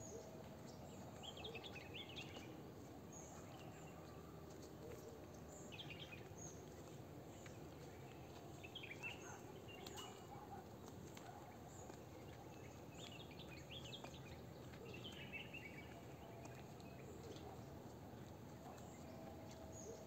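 Faint birdsong: short bursts of chirping twitter every few seconds over a quiet outdoor background hiss.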